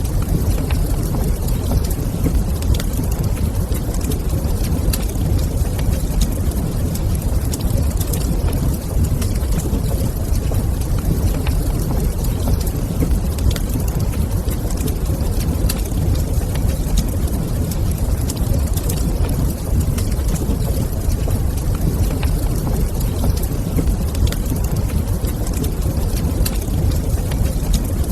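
Wood fire burning in a stone fireplace: a steady low rumble of flame with scattered small crackles and pops throughout.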